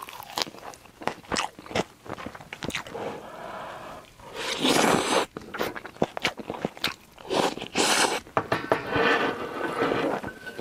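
Close-miked chewing: crisp crunches, biting and wet mouth sounds as a mouthful of food is bitten into and chewed, with a few louder, noisier chewing stretches in the middle and later part.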